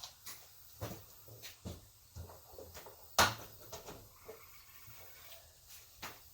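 Scattered soft clicks and knocks, with one sharper, louder knock about three seconds in.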